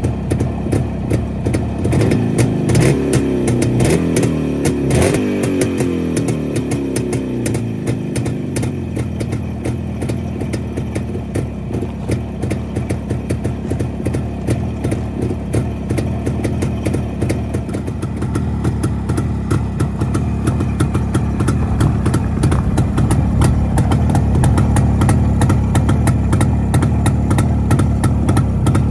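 Jawa 354's 250 cc single-cylinder two-stroke engine running at a stand. It revs in the first few seconds and its pitch falls back over several seconds to a steady idle, with a single click about five seconds in. It runs a little louder in the last third.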